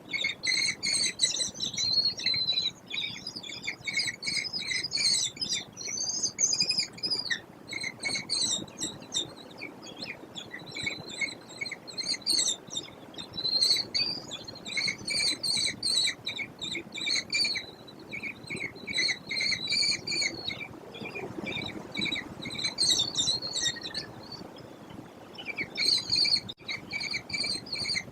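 American kestrels calling: rapid, high-pitched chittering notes repeated in bouts, with a short lull a little past the middle.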